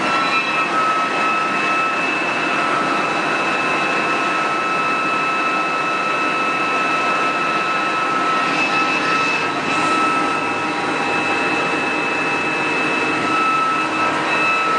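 Haas TL3B CNC lathe spindle running at a steady speed with a high whine, having just finished ramping up at the very start.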